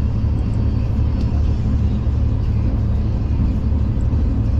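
Steady low rumble of a V/Line passenger train travelling, heard from inside the carriage, with a faint click about a second in.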